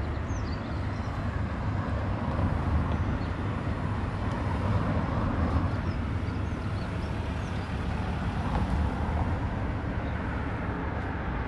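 Steady outdoor background rumble, heaviest at the low end, with faint short chirps scattered through it.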